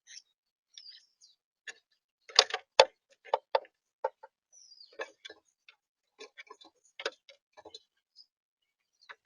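Irregular sharp clicks and taps of an animal at a bird feeder pecking and working at seed, loudest about two and a half seconds in, with a few short high bird chirps between them.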